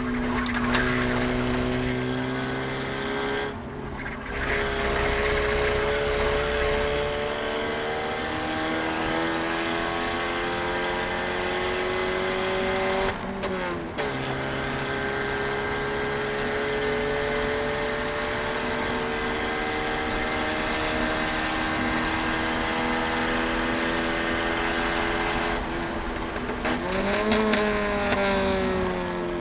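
Eagle Talon's four-cylinder engine heard from inside the cabin under hard driving. The revs climb steadily through the gears, with a brief break and drop at upshifts about 4 and 13 seconds in. Near the end a quick rise and fall in revs comes with a downshift.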